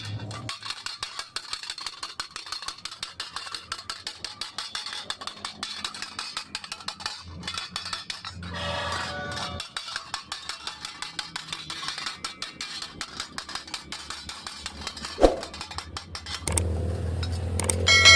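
Rapid, even hammer taps of metal on metal, with one harder strike about fifteen seconds in and a ringing metal clang near the end.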